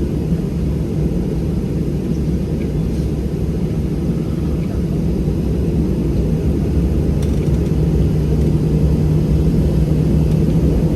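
Boeing 737-700 cabin noise: a steady low rumble from the CFM56 jet engines and airframe, with a hum that grows stronger and slightly louder near the end.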